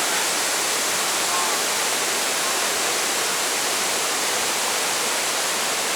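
Steady, even rush of falling water, like a waterfall heard close by.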